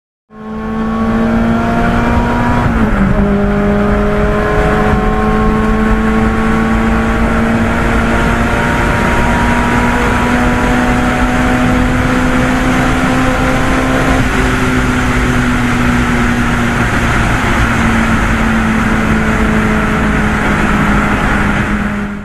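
Car engine running hard under load, its pitch creeping slowly upward and dropping suddenly twice, about 3 seconds in and about 14 seconds in, over steady road and wind noise.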